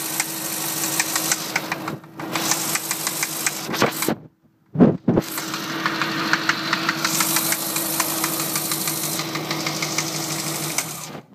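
A Mini's engine running, with a regular knocking tick several times a second over its steady hum: an unexplained knock coming from the engine. About four seconds in the sound drops out briefly and a short loud thump follows, then the running and knocking carry on.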